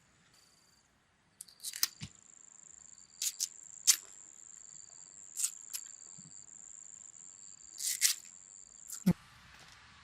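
An insect trilling: a steady high-pitched tone that starts about a second and a half in and stops near the end, with a fainter, broken lower tone beneath it. Scattered sharp clicks and snaps come throughout, and a single low thump comes near the end.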